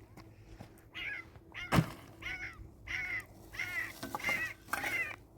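Birds calling: a run of short, harsh, arched calls, about two a second, with a single sharp knock about two seconds in.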